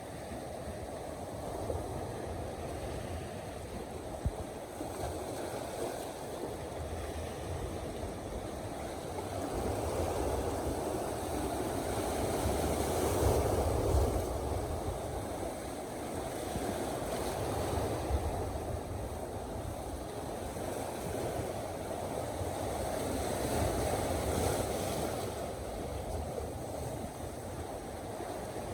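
Black Sea waves washing onto a stony shore: a continuous rushing wash that swells louder around the middle and again near the end, with some low rumble that may include wind on the microphone.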